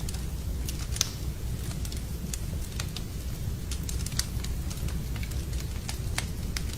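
Wood fire burning in a fireplace: irregular crackles and pops over a steady low rumble, with a sharper pop about a second in.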